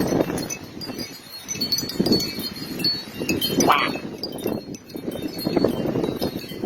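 Strong, gusty wind surging and easing every second or two, with wind chimes ringing in it.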